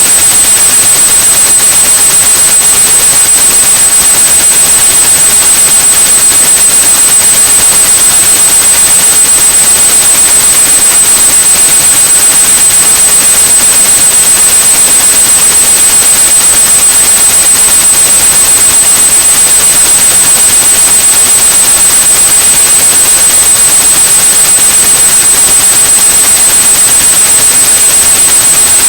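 Steady synthetic white noise with a continuous high-pitched sine tone at 8100 Hz mixed in, played loudly as a tinnitus-masking sound.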